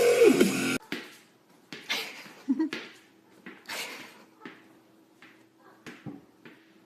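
Music cuts off abruptly just under a second in, followed by scattered light knocks and bumps, like a cupboard or door being handled, over a faint steady hum.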